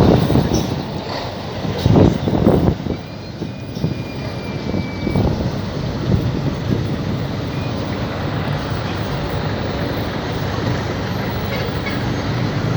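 Road noise of a moving lorry heard from its open back: a steady engine and traffic rumble, with a couple of brief louder bursts about two seconds in.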